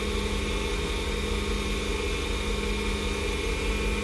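Wood lathe running at a steady speed, its motor giving a constant hum with several steady tones over a low rumble.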